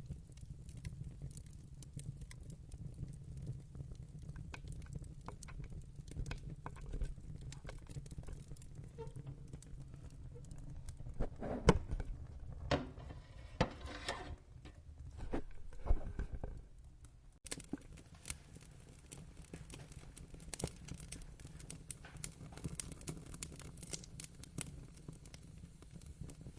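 Wood fire crackling in a fireplace: a low rumble of burning with many small snaps, and a run of louder sharp pops a little under halfway in. The low rumble drops away suddenly about two-thirds of the way through, while the crackling goes on.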